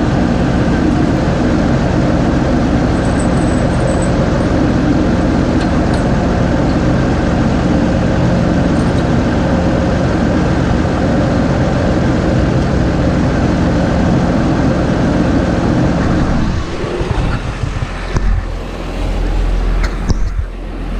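New Holland 6080 tractor engine running steadily. About three-quarters of the way through the sound drops away, leaving a low rumble and a few sharp knocks.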